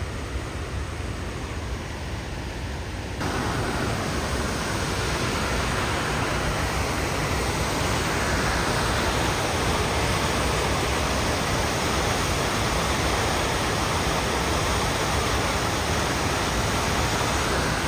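Rushing water of a waterfall, a steady dense hiss that jumps louder about three seconds in and then holds.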